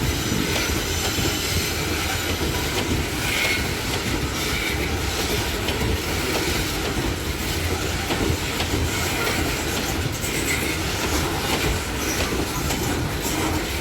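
Heavy freight train rolling steadily past at close range: a continuous rumble of steel wheels on rail, with clacks over rail joints and a few brief, high wheel squeals.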